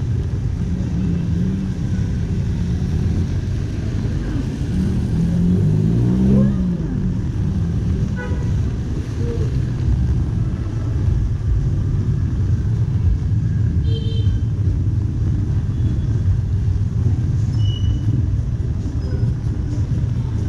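City street traffic: a steady low rumble of vehicle engines passing close by, with a short horn beep about eight seconds in.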